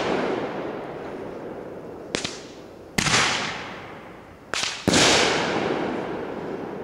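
Consumer fireworks cake firing shots: twice a smaller pop is followed within a second by a louder bang, about 2 to 3 seconds in and again about 4.5 to 5 seconds in. Each loud bang trails off over a couple of seconds.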